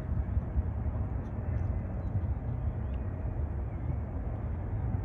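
Low, steady rumble of a distant jet airliner.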